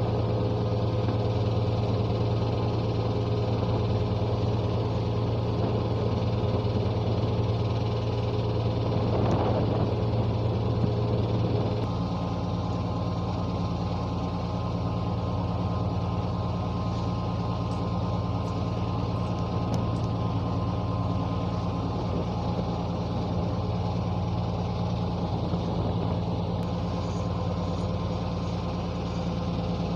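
An engine running steadily, its note shifting and getting a little quieter about twelve seconds in.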